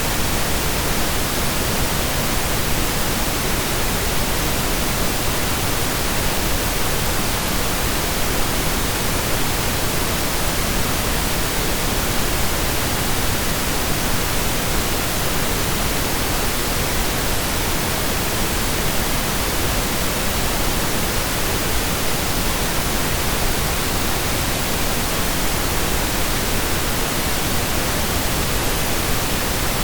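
Steady synthesized pink noise: an even, unchanging hiss spread across the whole range, like steady rain heard from indoors.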